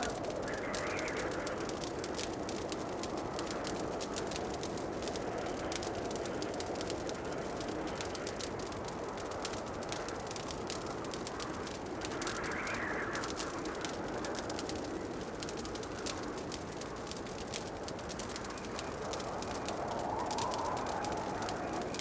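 Wood fire crackling in a fireplace with many small, quick pops over a steady rushing noise that swells and fades a few times.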